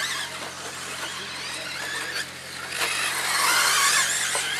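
Several battery-electric RC stadium trucks racing, their motors and gears whining high and rising and falling in pitch as they accelerate and slow, loudest about three seconds in.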